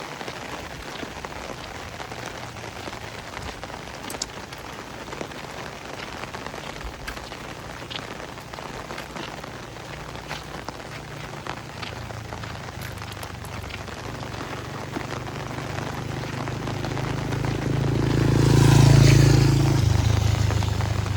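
Steady rain falling and pattering on surfaces. From about midway a motor vehicle's engine approaches, growing louder until it passes close by near the end, then easing off.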